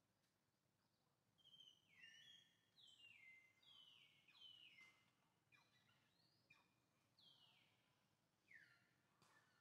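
A bird calling faintly and repeatedly: short downward-sliding calls, one or two a second, beginning about a second and a half in, over a quiet outdoor background.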